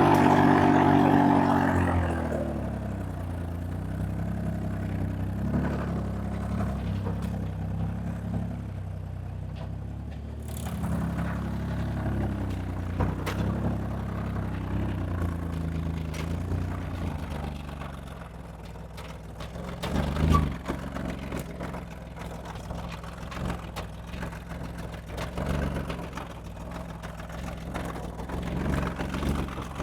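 A vehicle engine comes down from higher revs in the first couple of seconds, then runs at lower revs with small changes in speed. There is a brief thump about twenty seconds in.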